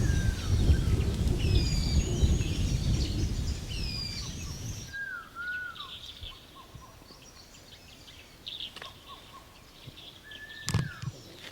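Wild birds calling with short, repeated downslurred whistles, over a low rumble that stops abruptly about five seconds in. A single sharp knock near the end.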